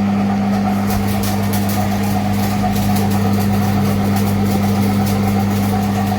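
Swaraj tractor's diesel engine idling steadily.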